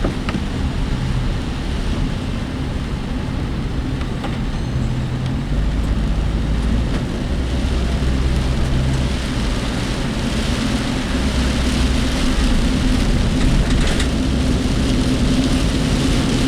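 Cabin noise of a work vehicle driving through typhoon rain: a steady engine and road rumble with the hiss of rain on the body, the hiss growing louder about ten seconds in. The work vehicle's body gives a rattle.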